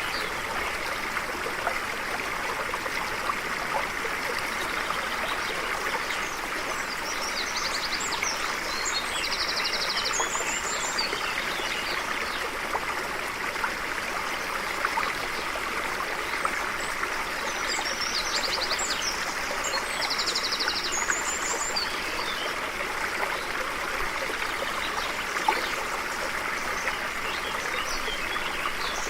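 A stream flowing steadily, its rush and trickle even throughout. Birds chirp and trill briefly twice, about a quarter and two-thirds of the way through.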